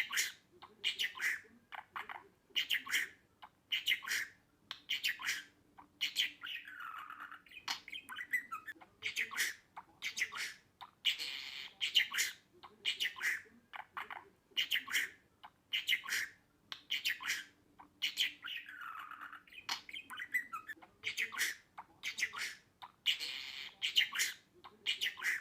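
Budgerigar chirping and squawking in a quick run of short, sharp calls, about one to two a second, with a longer call sliding down in pitch twice.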